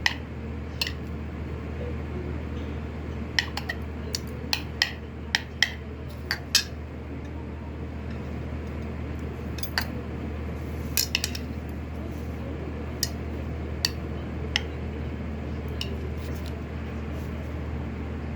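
Utensils clinking and tapping against a bowl while eating, in scattered sharp taps with a steady low hum underneath.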